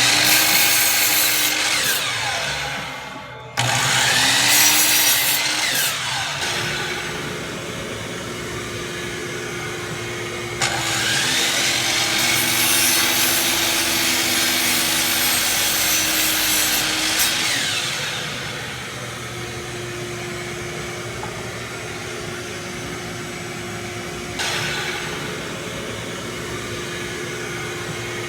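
Power saw running with a steady motor hum, its blade cutting through a packed cylinder of wax-soaked sawdust to slice it into fire-starter discs. There are several louder rasping cuts: at the start, a few seconds in, a long one midway, and another near the end.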